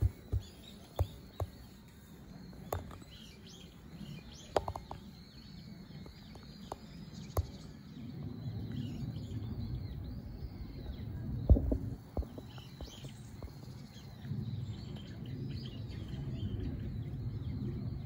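Small birds chirping and twittering throughout, over a low rumble of background noise that grows from about halfway through. A few sharp taps stand out, the loudest just past the middle.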